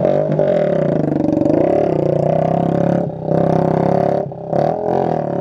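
Small motorcycle engine revving hard with a loud droning exhaust, its pitch rising and falling; the throttle drops off briefly about three seconds in and again a second later.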